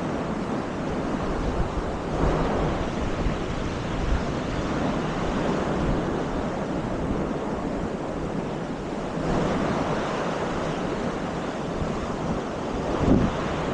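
Sea waves breaking and washing on a sandy beach, rising in a swell twice, with wind rumbling on the microphone and a short gust near the end.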